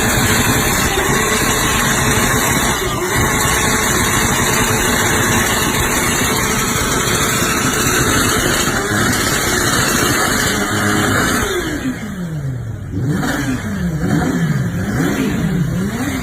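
Kawasaki Ninja H2R's supercharged inline-four engine held at high revs. About twelve seconds in the revs drop, and then the engine is blipped up and down several times.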